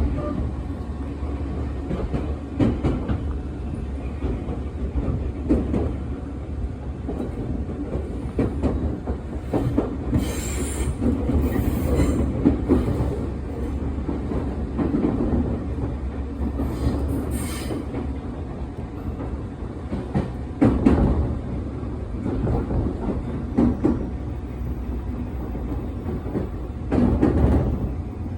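Electric passenger train running on the rails: a steady low rumble, with wheel knocks at rail joints every few seconds and brief high wheel squeals around the middle.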